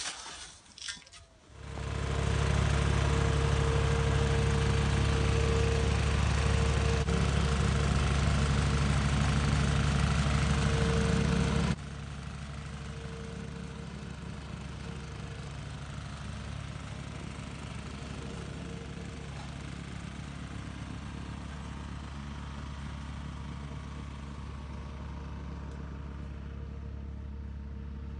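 An engine running steadily at a constant speed, with a faint whine. About twelve seconds in it suddenly drops to a much lower level and keeps running.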